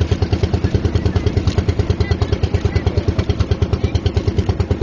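Small boat's engine running steadily with a fast, even chugging, about eight to nine beats a second.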